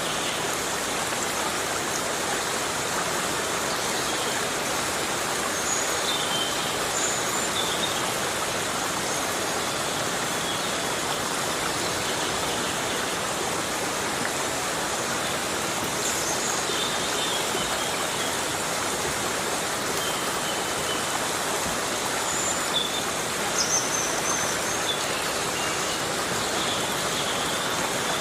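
Heavy rain falling steadily in a forest, an even hiss with a few brief high-pitched sounds here and there over it.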